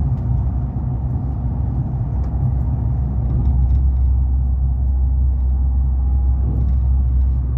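High-speed train running at speed, heard from inside the passenger cabin as a steady low rumble. The rumble deepens about three and a half seconds in.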